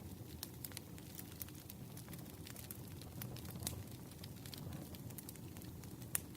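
Campfire burning, with a steady low rumble and irregular sharp crackles and pops of the wood, one louder pop near the end.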